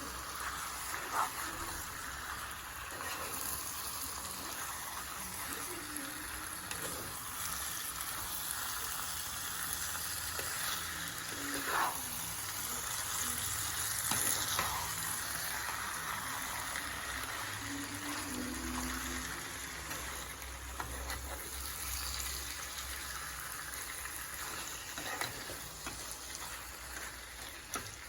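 Chicken, spices and avocado sizzling in hot oil in a pan while being stirred, a steady frying hiss with scattered scrapes and clicks of the spoon against the pan.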